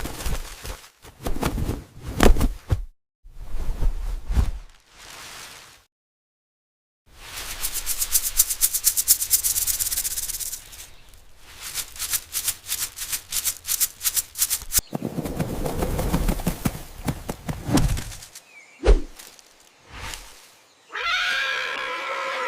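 Peacocks rattling their raised trains in rapid, dry shivering bursts, several stretches of a few seconds each broken by short silences. A pitched call comes in near the end.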